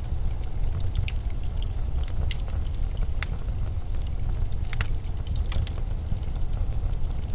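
Steady low rumble of blizzard wind, with scattered sharp ticks and crackles over it.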